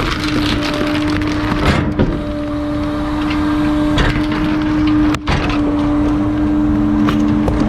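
Garbage truck's hydraulic compactor running with a steady hum, with cracking and crunching as bulky items are crushed.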